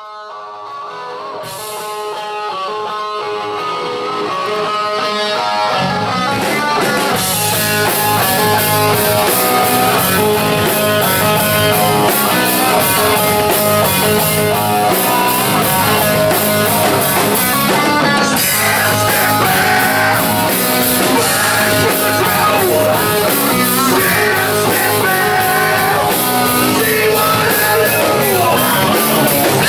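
Rock band playing live: electric guitar fades in, with cymbals entering and the bass and drum kit coming in fully about six seconds in, then a steady loud rock groove.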